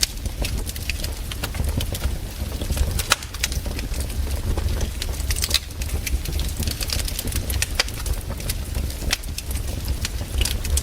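Campfire wood crackling, with frequent irregular sharp pops and snaps over a low steady rumble.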